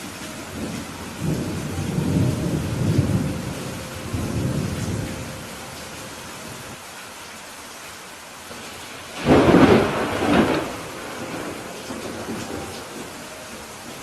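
Steady rain with thunder: a low rolling rumble over the first few seconds, then a louder, sharper thunderclap about nine seconds in that dies away into rumbling.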